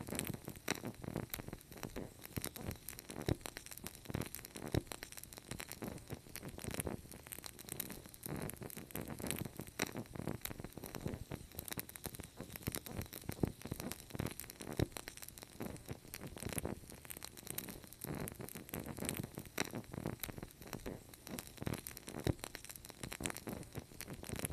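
Wood fire crackling: a dense, irregular run of sharp pops and snaps over a soft low rumble of burning.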